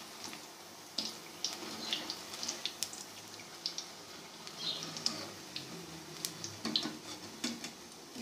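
Besan phulkiyan (gram-flour fritters) frying in hot ghee: a steady sizzle with many small crackles and pops.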